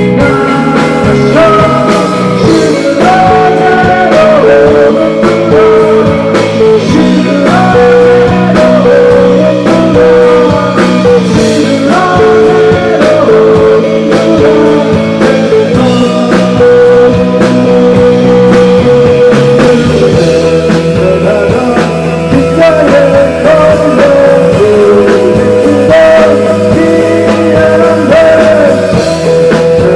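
Live rock band playing loud, with an electric guitar line that holds and bends notes over bass and drums.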